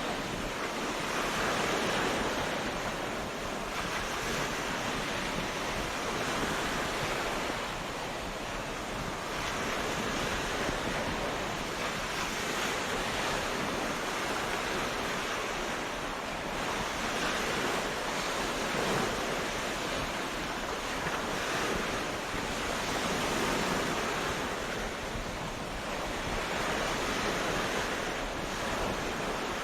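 Sea waves breaking and washing on a beach, a continuous surf noise that swells and eases every few seconds.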